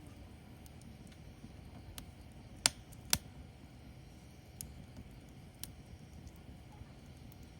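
Firewood burning: a low steady rustle with scattered sharp crackles, the two loudest pops close together near the middle.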